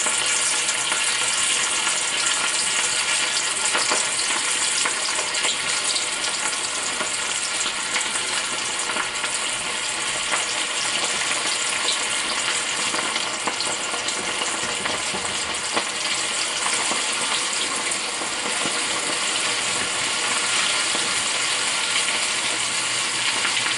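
Battered shrimp deep-frying in a pan of hot oil: a steady, continuous sizzle with fine crackling.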